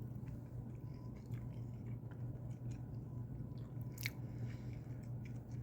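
A person chewing a bite of split pea flour flatbread with eggs, with faint mouth clicks and one sharper click about four seconds in, over a steady low hum.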